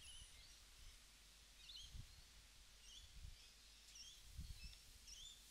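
Near silence: quiet room tone with faint, short bird chirps about once a second, and a few soft low thumps.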